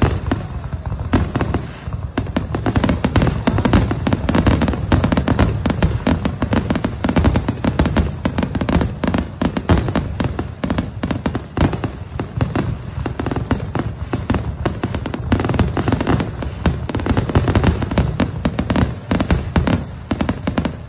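Aerial fireworks in a continuous rapid barrage, many bangs a second overlapping with no pause, which stops suddenly at the very end.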